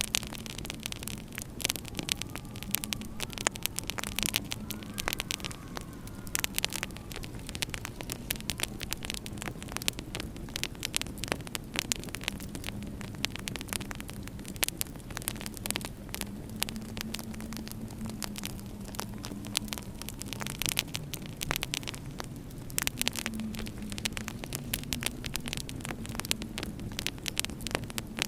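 Fireplace wood fire crackling with dense sharp pops, over a low wavering moan of winter wind.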